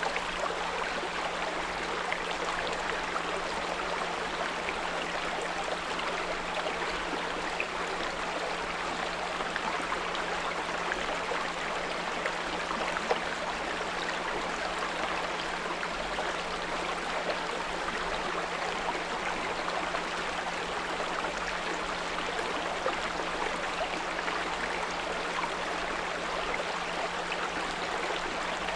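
Small brook flowing steadily, with a steady low pure tone at 174 Hz running beneath the water sound.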